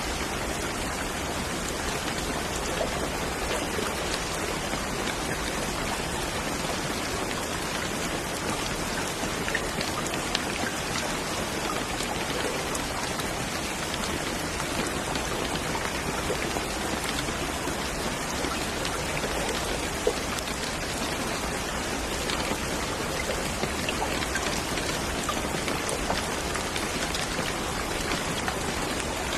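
Steady rain falling, with a dense patter of individual drops striking a surface. There is one slightly louder drop about two-thirds of the way through.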